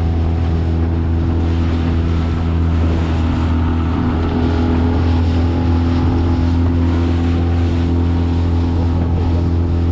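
Honda BF20 four-stroke outboard motor running steadily under way, pushing an inflatable boat along at an even speed.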